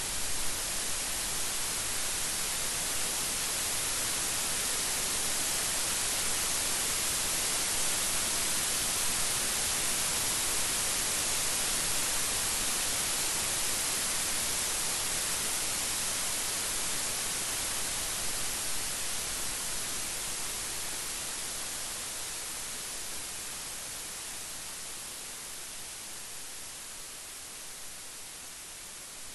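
Steady rain making an even hiss with no thunder, slowly growing quieter over the last third.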